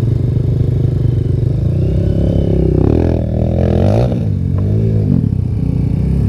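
Trail motorcycle engine revving hard, its pitch rising and falling several times in the middle, over a steady low engine note.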